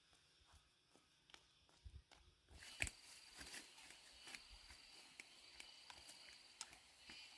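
Faint scattered clicks and knocks. About two and a half seconds in they grow busier and a steady high-pitched whine comes in alongside them.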